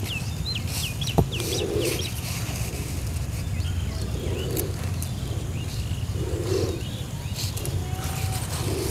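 Small birds chirping in short repeated calls over a steady low rumble, with one sharp click about a second in.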